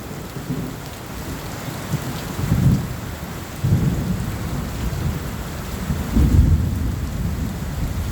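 Heavy monsoon rain falling steadily, with thunder rumbling in three low swells, the loudest about six seconds in.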